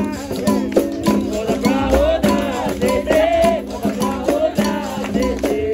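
Capoeira roda music: berimbau struck in a steady rhythm, its rattling caxixi shaker and percussion along with it, and voices singing over it.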